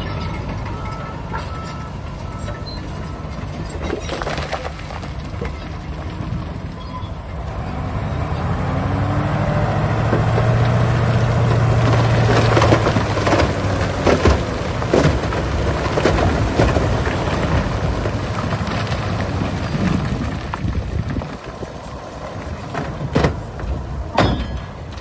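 Heavy diesel earthmoving machine running, its engine rising and working under load partway through, with scattered knocks and clatter of rock.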